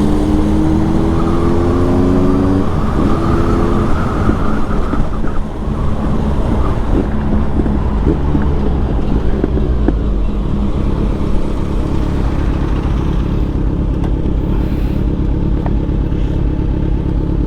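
Kawasaki Z900 inline-four engine on the move, rising in pitch as it accelerates over the first few seconds, then running at a steadier note under wind and road noise.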